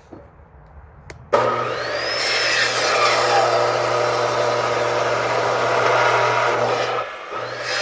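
Electric saw cutting through firewood: a loud, steady sawing noise over a low motor hum begins suddenly about a second in. It dips briefly near the end, then carries on.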